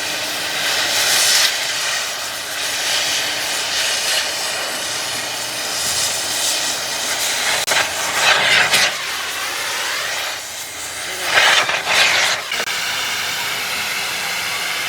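Hissing air blasts in repeated bursts of a second or two, over a steady background hiss; the two loudest come about eight and twelve seconds in.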